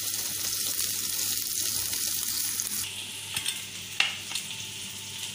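Diced boiled potatoes frying in hot oil with cumin seeds in a pan, sizzling steadily while a spatula stirs them. About three seconds in, the sizzle drops quieter and a few sharp clicks follow, the loudest about a second later.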